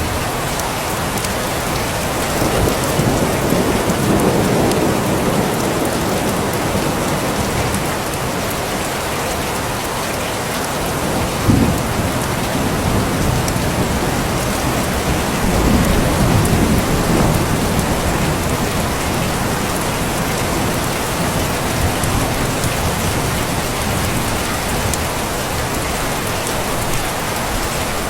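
Steady rain with rumbles of thunder that swell a few seconds in and again past the middle, and one sharp crack near the middle.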